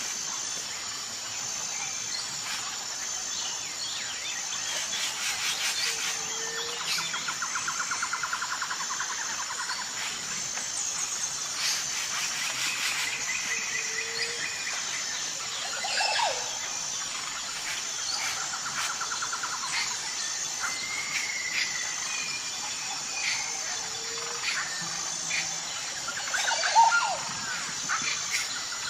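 Jungle ambience: birds calling with whistled and gliding notes over a steady high, evenly pulsing insect chorus and repeated buzzy trills. A short low hoot recurs every few seconds, and one louder call comes near the end.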